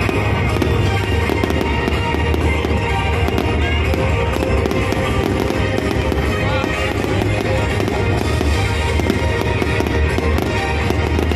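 Aerial fireworks display going off in rapid, dense pops, with music with a heavy bass playing steadily throughout.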